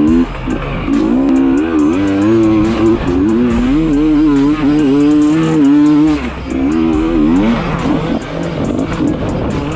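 Dirt bike engine revving up and down repeatedly, over background music with steady bass.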